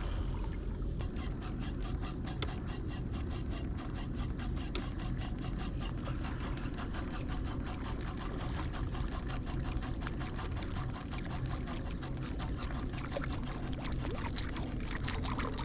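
Water lapping and trickling against a kayak hull, with a dense run of small ticks throughout and a brief rush of hiss at the very start.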